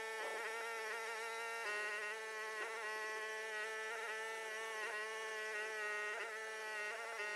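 Huayee HY14C mini excavator's small engine running at a steady speed, a buzzy drone with a slight waver in pitch, which steps down a little about two seconds in.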